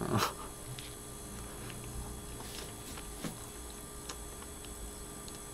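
Faint sounds of a man biting into and chewing a hamburger, with a short louder sound right at the start and a few soft clicks later, over a faint steady electrical hum.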